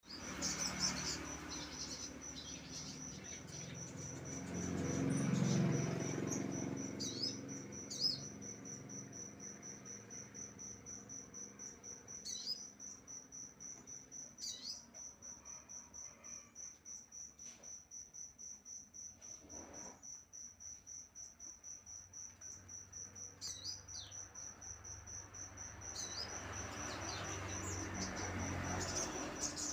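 A cricket trilling steadily, a continuous high, fast-pulsing trill, with short bird chirps every few seconds. A low rumble swells twice, near the start and near the end.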